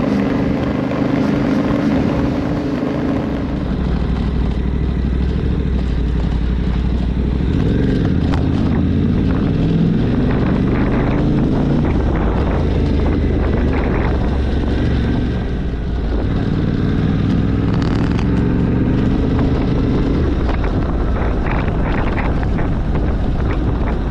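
Yamaha Ténéré 700's parallel-twin engine running under way, its note rising and falling with throttle and gear changes.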